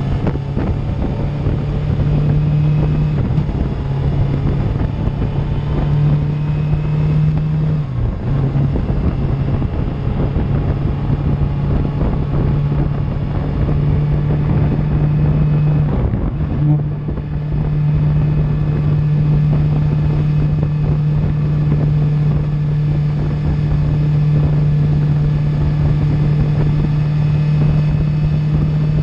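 Suzuki GSX-R750's inline-four engine through an Akrapovic exhaust, running at steady cruising revs, with wind buffeting the microphone. The engine note dips briefly twice, about eight seconds in and again about halfway through, as the throttle is eased, then settles back.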